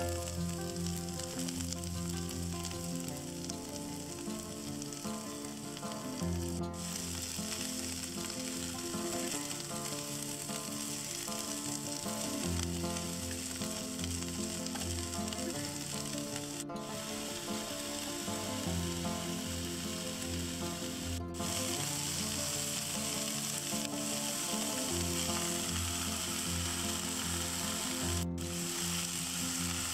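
Cabbage, king oyster mushrooms and sliced pork sizzling steadily as they stir-fry in a frying pan over a portable gas burner, with background music playing underneath.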